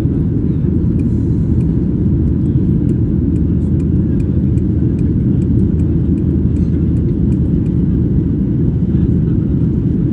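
Steady low rumble of an airliner's engines and airflow heard inside the passenger cabin, with no rise or fall in pitch.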